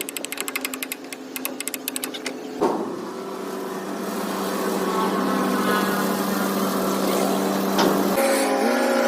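Excavator engine running: a rapid ticking clatter for the first couple of seconds, a sharp knock, then a steady even running note that swells a little and steps slightly up in pitch near the end.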